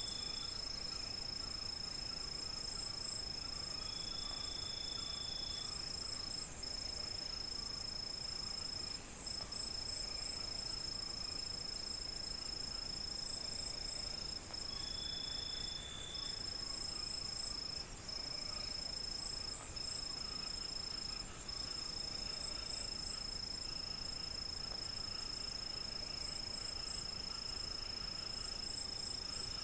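Crickets chirring in a steady high-pitched trill, with a second insect pulsing higher still. Now and then a lower drawn-out note of about a second and a half rises above them.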